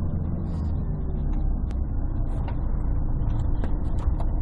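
Inside a 1998 Scania CN113CLL city bus: its Scania DSC 11.71 six-cylinder diesel and Voith automatic gearbox running with a steady low drone, made bassy and muffled by a partly covered phone microphone. A few sharp clicks come through about two seconds in and near the end.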